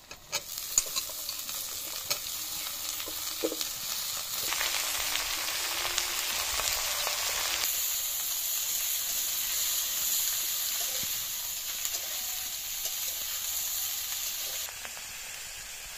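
Broccoli florets sizzling in hot oil in an iron kadai as they are stirred and tossed with a metal spatula, with clicks and scrapes of the spatula on the pan. The sizzle starts sharply just after the start, with a loud clatter, as the vegetables meet the oil.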